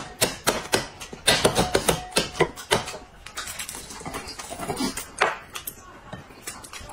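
Close-up eating noises: wet chewing and mouth smacking as an egg is eaten, with a few short hummed sounds. Throughout there are many sharp clicks and crackles, fitting an eggshell being peeled.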